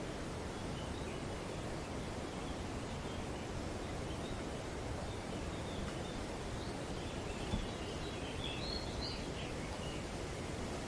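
Wind blowing steadily through tree foliage, with faint scattered bird chirps that come more often around eight or nine seconds in.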